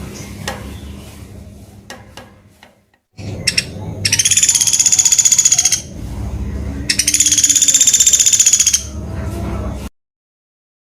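Pelatuk beras woodpecker (common flameback) giving two long, rapid rattling trills of about two seconds each, a second apart. Low background rumble and a few clicks come before them, and the sound cuts off suddenly near the end.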